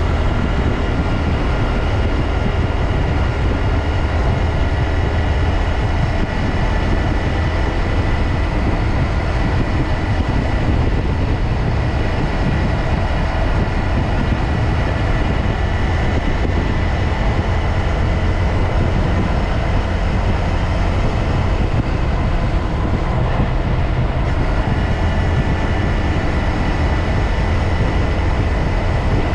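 2022 Honda Grom's 125 cc single-cylinder engine and five-speed gearbox running steadily under riding, with heavy low wind rumble and a thin, steady high whine. The owner takes the noise for a mechanical transmission fault.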